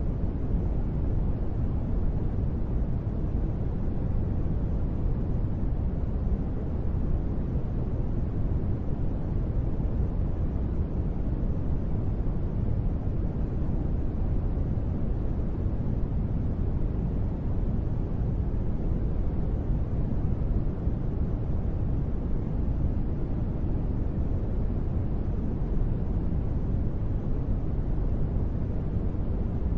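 Steady, unbroken noise for sleep, sold as gentle rain: a deep, dull hiss weighted to the low end, with no separate drops or changes.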